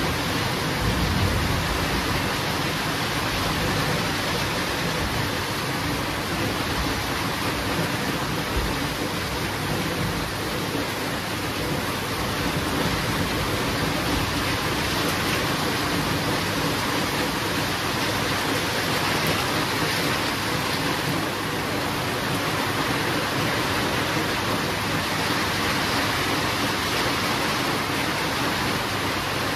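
Heavy rain falling steadily, with a low rumble of thunder in the first couple of seconds and a brief low thump a few seconds later.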